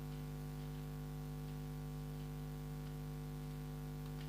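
Steady electrical hum with several constant tones over a faint hiss: a recording fault that the uploader apologises for. A faint click comes near the end.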